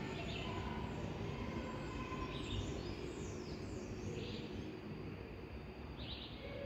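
Outdoor ambience: a steady low background noise with birds chirping now and then, a few short high calls and a brief cluster of quick downward sweeps midway.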